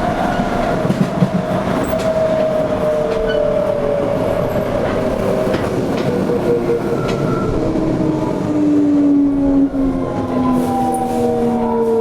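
Toei 5300 series electric train heard from inside the car: the traction motor and inverter whine, a set of tones falling steadily in pitch as the train slows, over the rumble of wheels on rail with occasional clicks from the rail joints.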